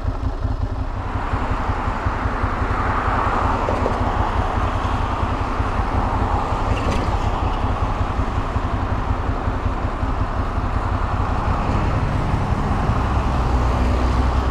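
A Ducati Monster 696's air-cooled V-twin, fitted with Akrapovic slip-on exhausts, running under way, with a steady rush of wind and wet-road noise over it. The engine note gets louder near the end.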